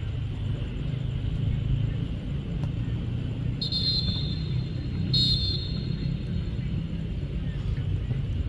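Two short, shrill blasts of a referee's whistle, about a second and a half apart, over a steady low rumble of field noise.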